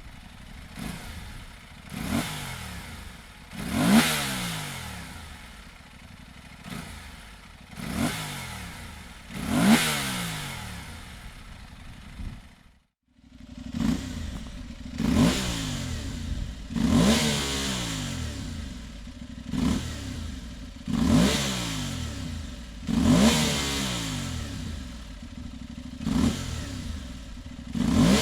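Aprilia Tuareg 660 parallel-twin engine breathing through a Dominator aftermarket exhaust, revved in repeated sharp throttle blips that each climb quickly and fall back to idle, about every two seconds. Partway through it briefly cuts to near silence, then the blips resume at a slightly quicker pace.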